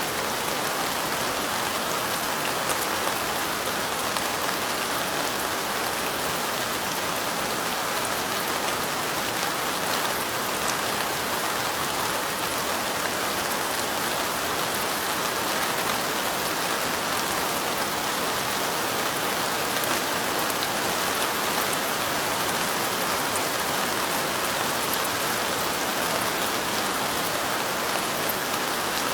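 Light rain falling steadily, an even hiss of dense drops with fine ticks of individual drops.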